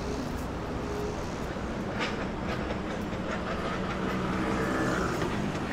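Steady rumble of a passing vehicle, growing a little louder near the end.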